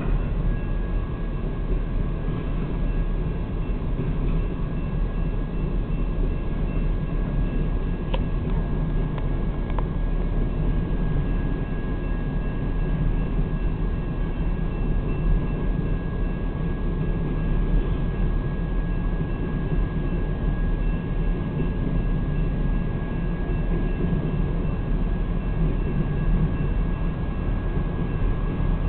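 A freight train's cars rolling steadily across a road crossing, a continuous low rumble heard from inside a car waiting at the gate. A faint steady high-pitched tone runs under it.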